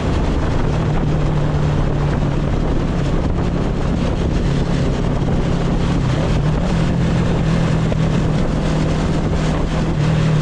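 Motorcycle engine running steadily while riding, with a steady low drone and wind rushing over the microphone; the engine note dips briefly about six and a half seconds in.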